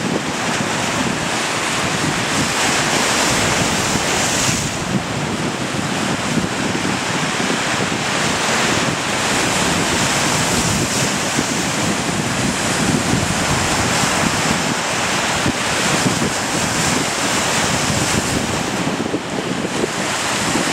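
Wind-driven waves breaking on the shore close by, a steady loud wash that swells and eases, with gusting wind buffeting the microphone.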